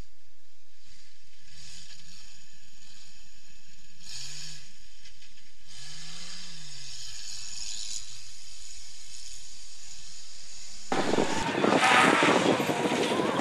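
Off-road rally car engine, faint and muffled, revving up and down twice at a low pitch. About eleven seconds in, it gives way abruptly to a rally car engine running loud at speed.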